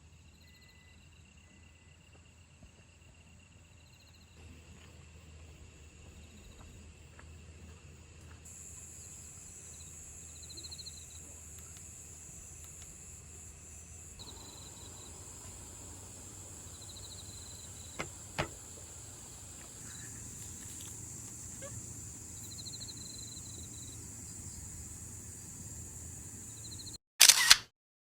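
Insects, cicadas among them, calling: a steady high-pitched buzz that gets louder about eight seconds in, with short pulsed chirps repeating every few seconds over it. Two sharp clicks come a little past the middle, and a loud brief burst near the end.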